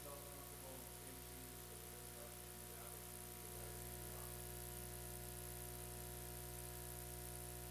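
Faint steady hum made of several held tones, with a hiss over it. Faint, distant voices can be heard under it during roughly the first half.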